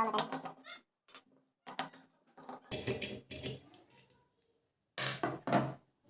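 Knocks and clatter of a ceiling fan's metal parts and hand tools being handled while its cover screws are undone, in short groups, the loudest about three seconds and five seconds in.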